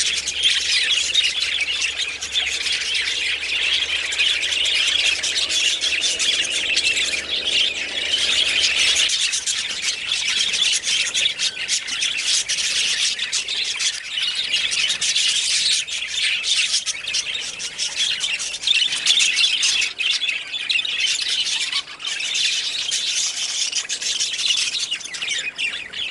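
A flock of budgerigars chattering continuously, many birds calling at once.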